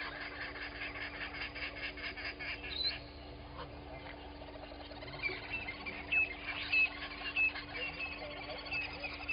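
Morning birdsong at a bush waterhole. One bird gives a fast, rhythmic chattering call for about the first three seconds. From about halfway in, a short high whistled note repeats roughly twice a second, over a steady low hum.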